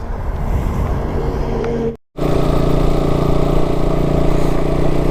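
Motorcycle engine running steadily. The sound cuts out briefly about two seconds in and comes back louder and fuller.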